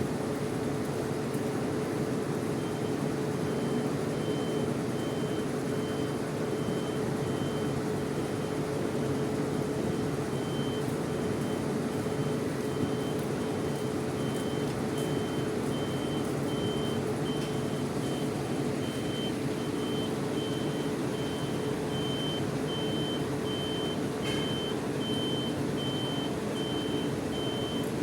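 A bus's reversing alarm beeping a little over once a second, starting about three seconds in and growing louder, over the steady hum and rumble of idling bus engines.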